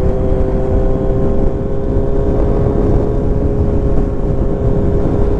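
Kawasaki Z900's inline-four engine running at a steady cruise, its pitch holding level, with wind rushing over the microphone.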